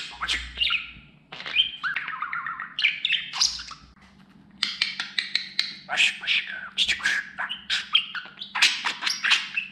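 Pet budgerigar warbling and chattering: rapid chirps and squawks, with a short pause about four seconds in.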